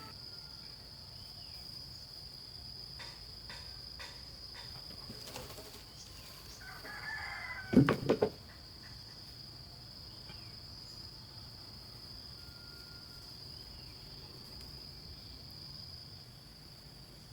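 Steady high drone of insects throughout. About seven seconds in a rooster crows briefly, followed at once by three loud, quick thumps.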